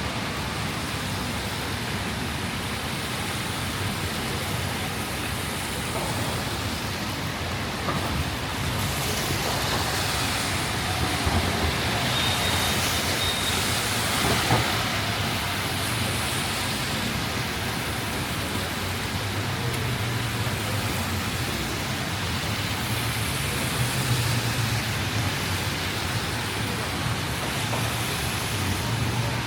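Steady rain on a city street mixed with road traffic, a constant hiss with cars passing on the wet road; it grows a little louder for several seconds around the middle.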